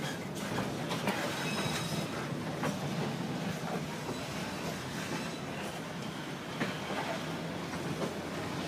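A train running on the rails: a steady rumble of wheels on track, with occasional clacks at the rail joints and a faint high wheel squeal.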